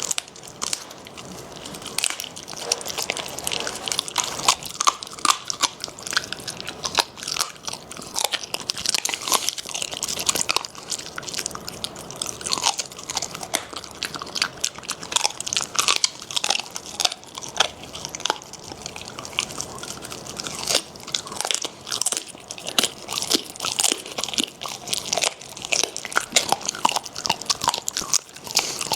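Shiba Inu dogs chewing a raw-fed meal of meaty bones, with rapid, irregular crisp crunches as the bones and cartilage break between their teeth.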